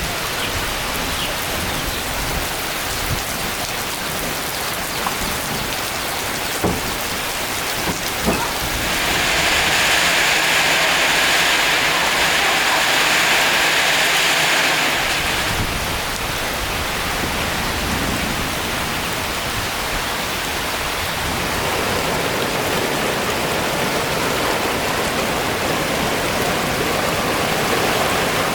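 Steady hiss of water, rain or running stream water, that grows louder and sharper for several seconds in the middle, with a couple of faint knocks before that.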